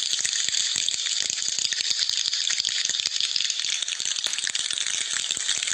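Heavy rainfall: a steady, dense patter of many small taps blending into a hiss.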